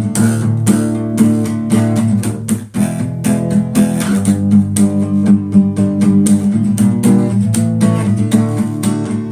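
Acoustic guitar strummed in a steady rhythm of chords, with a brief break about two and a half seconds in.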